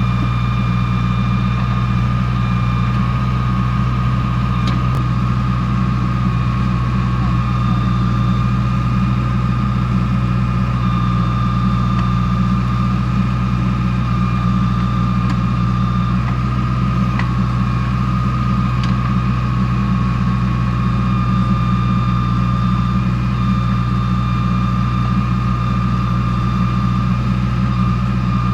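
Diesel engine of a JCB 2DX backhoe loader running steadily at a constant speed, with a steady high whine over it and an occasional faint click.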